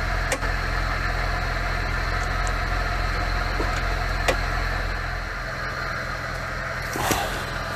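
Off-road vehicle engine idling steadily, its note shifting slightly about five seconds in, with a few sharp clicks and a louder knock near the end.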